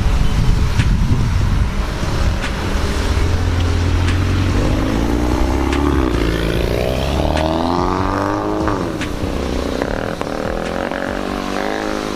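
Exhaust of a Mini Cooper Countryman S F60 with a full aftermarket exhaust system, its turbocharged four-cylinder engine running with a deep rumble, then revving up with rising pitch about halfway through, dropping back and climbing again near the end.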